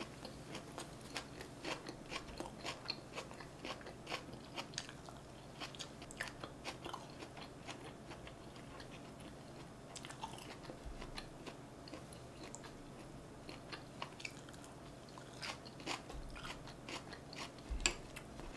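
Close-miked chewing of North Korean injogogi-bap (soybean 'artificial meat' sheets wrapped around rice with spicy sauce): soft, wet mouth clicks and smacks, with a louder knock near the end.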